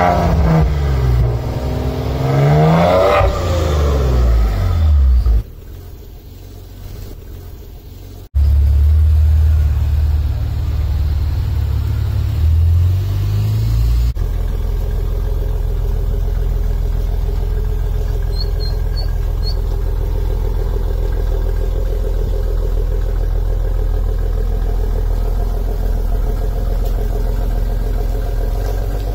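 Maserati Levante S Q4 engine revved twice from idle, each rev a quick rise and fall in pitch. After a quieter stretch it settles into a steady idle.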